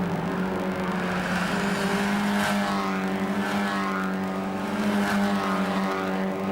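Mazda MX-5 race cars' engines running hard at high revs, the engine pitch swinging up and down several times as cars shift or go past.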